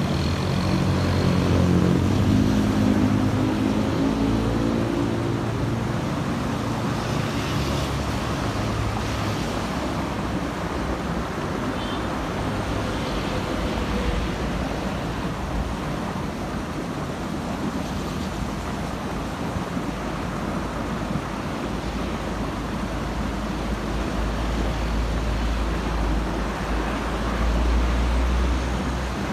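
Steady road traffic with heavy vehicles passing. In the first few seconds a large diesel engine's pitch climbs as it pulls away, and in the last several seconds a deep low engine rumble builds as another heavy vehicle goes by.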